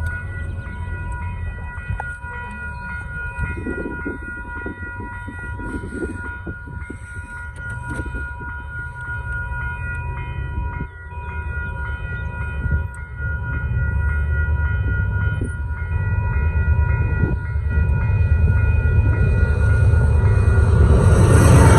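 Union Pacific coal train's locomotive horn sounding a long, held chord of several notes over the low rumble of the approaching train, which grows louder toward the end.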